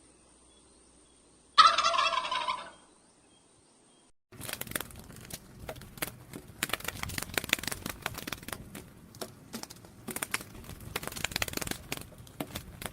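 One short, loud animal call lasting about a second, about one and a half seconds in. From about four seconds in, a long stretch of crackling, clicking noise follows.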